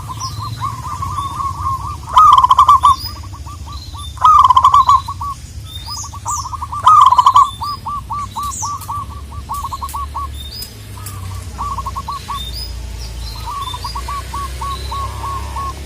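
Zebra doves calling: runs of short, quickly repeated cooing notes, with three louder stretches about two, four and seven seconds in.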